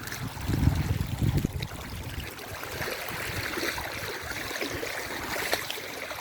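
Shallow river water flowing, an even steady rush, with a low rumble over it for the first second and a half.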